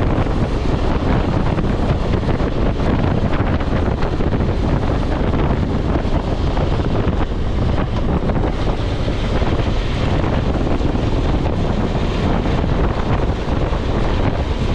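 Steady wind rushing over the microphone of a moving BMW F 650 GS motorcycle, with the bike's engine and road noise running underneath.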